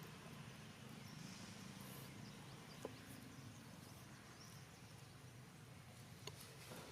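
Near silence: faint outdoor background noise with a steady low hum and a few faint high chirps, broken by two small clicks, about three seconds in and near the end.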